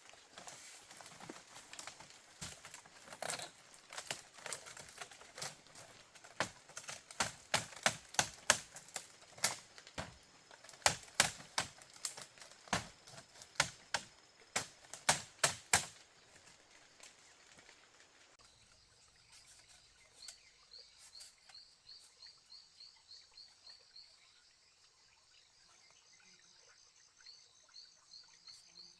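Irregular sharp knocks, like wood being struck or chopped, coming faster and louder toward the middle, then stopping about sixteen seconds in. After that a rapid, evenly repeated high chirping, an insect or a bird, is heard.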